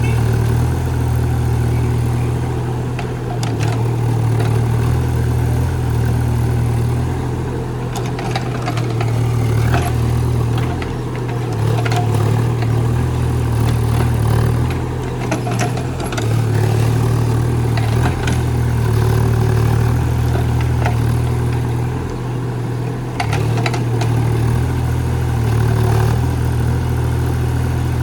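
Mini backhoe's diesel engine running steadily under working load, its pitch dipping slightly now and then, with scattered short knocks and clatters from the digging.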